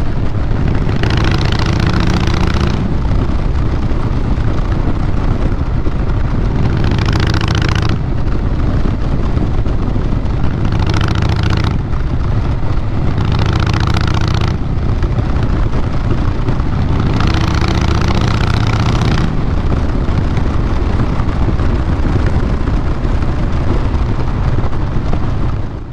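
2012 Harley-Davidson Fat Boy Lo's Twin Cam 96B V-twin running through a Vance & Hines Big Radius 2-into-2 exhaust, a steady low exhaust note. Five times, a stretch of added hiss of a second or two comes and goes over it.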